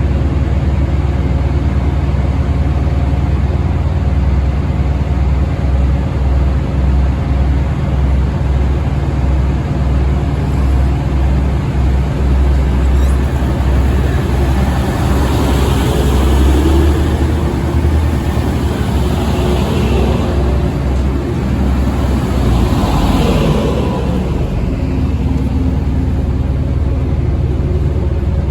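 Railway train engine running at a station, a loud steady low rumble, with higher sounds swelling and fading between about fifteen and twenty-four seconds in.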